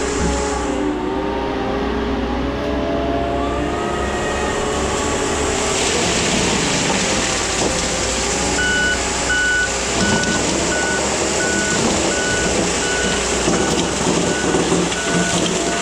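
Case 620 skid steer running under load with its Shearex mulching head, the engine pitch wavering as it works. From about nine seconds in, its backup alarm beeps steadily, a little over once a second, as it reverses.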